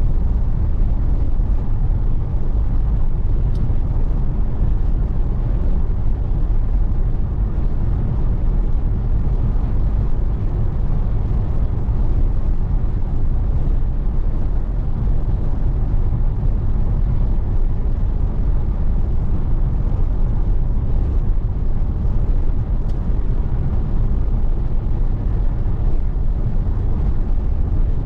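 Steady low rumble of road and wind noise from a car driving along, even in level throughout.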